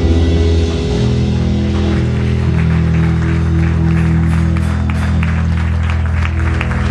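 Live rock band letting a final chord ring out on electric guitar and bass after a crash, as scattered handclaps start about two and a half seconds in.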